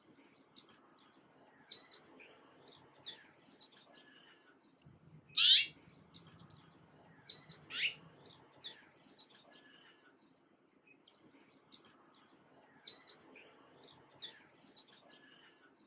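Small birds chirping and tweeting in short, scattered calls. Two much louder, sharp calls stand out about five and a half and eight seconds in.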